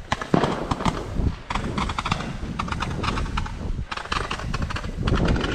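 Fireworks going off: a dense, rapid, irregular string of bangs and crackling pops.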